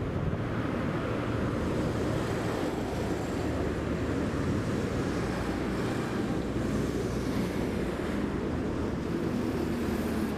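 Steady rushing of flowing river water, with a low rumble of wind on the microphone.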